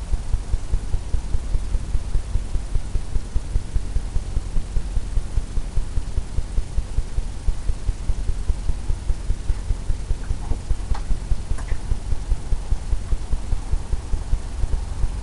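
A paintbrush tapping steadily against a stretched canvas, giving a run of dull, even thumps at about four a second.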